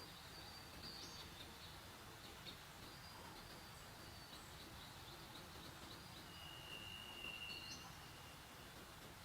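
Faint outdoor ambience with thin, high-pitched bird calls and chirps, including one held whistled note about two thirds of the way through.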